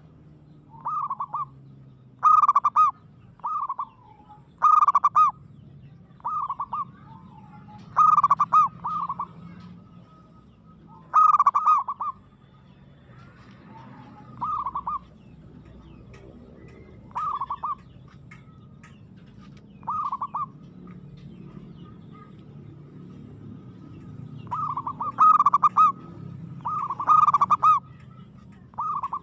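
Zebra dove cooing: short phrases of quick notes repeated every one to three seconds, with a longer pause around the middle before a quicker run of phrases near the end.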